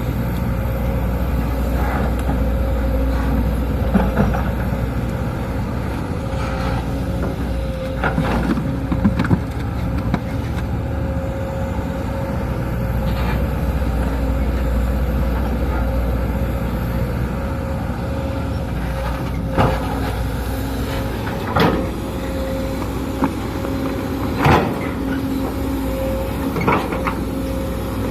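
Sumitomo SH210 hydraulic excavator working: its diesel engine runs steadily with a steady whine over it, and sharp knocks and clunks come every few seconds.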